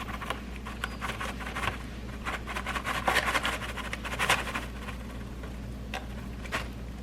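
Dishes and cutlery clinking and clattering while being hand-washed at a kitchen sink. The clatter is busiest in the first half and thins to a couple of separate knocks near the end.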